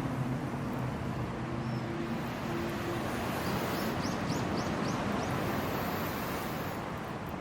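Hardwood campfire burning with a steady, dense crackle. A faint low drone fades out about three seconds in, and a bird gives five quick high calls around the middle.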